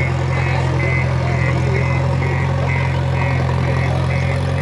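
Tractor engine running steadily at a constant speed, with a short high-pitched beep repeating about twice a second over it.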